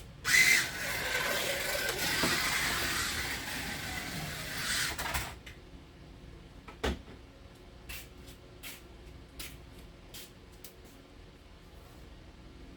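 A 1/24 scale slot car running flat out on the track for about five seconds, its small electric motor whining over the rattle of the tyres and pickup, then cutting off suddenly. A single knock follows, then a few light clicks.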